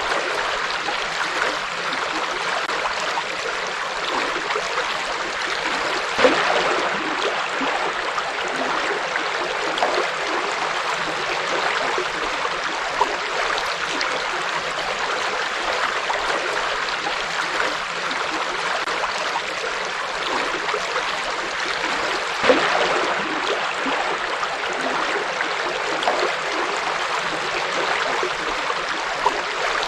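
River water flowing over rocks, a steady rushing and gurgling, with two brief louder surges about six and twenty-two seconds in.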